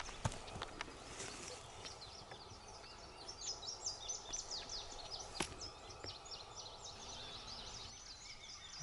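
Small birds chirping and singing in many short, quick, falling notes, busiest in the middle. A few sharp clicks come in the first second and a half, and one more about five and a half seconds in.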